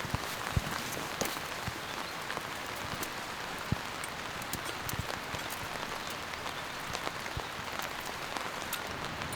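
Steady light rain falling, an even hiss with scattered sharper drop strikes at irregular moments.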